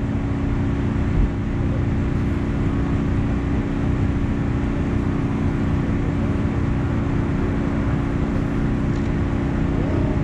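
An engine running steadily, a constant low hum with no revving.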